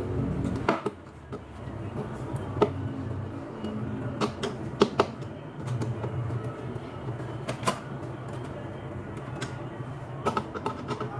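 Scattered sharp clicks and light knocks at irregular intervals, as TV stand parts are handled and fitted, over a steady low hum.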